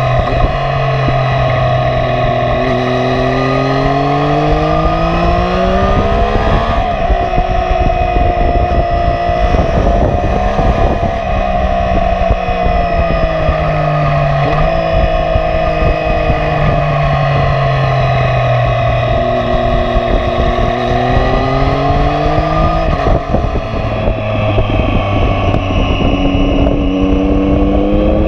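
Triumph Street Triple R 675's three-cylinder engine running loudly through a Coffman aftermarket exhaust with the dB killer removed. The revs climb and fall slowly over several seconds at a time, dropping abruptly about seven seconds in and again after about twenty-three seconds.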